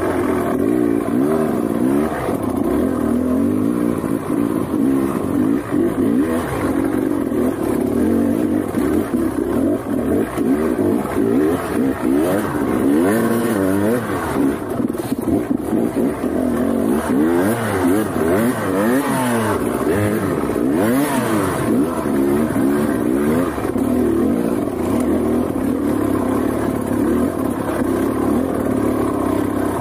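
Trail motorcycle engine running under constantly changing throttle, its pitch rising and falling over and over as it is revved and eased off.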